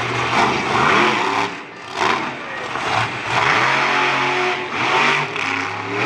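Monster truck engine revving hard in repeated surges, its pitch rising and falling several times.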